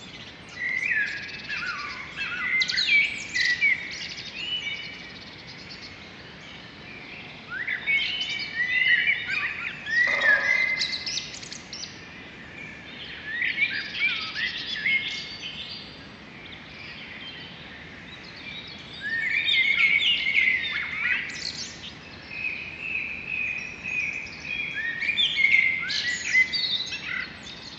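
Birds singing in phrases of quick, varied chirps and whistles, several seconds of song at a time with short pauses between, over a faint steady outdoor hiss.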